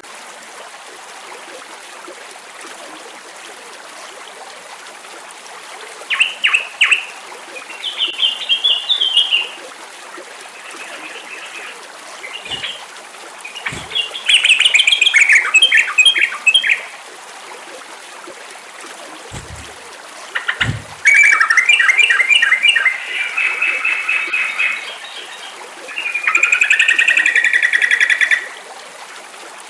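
Sooty-headed bulbul (trucukan) song: about six bursts of rapid, bubbly chirping phrases, starting about six seconds in with pauses between them, over a steady hiss of flowing water.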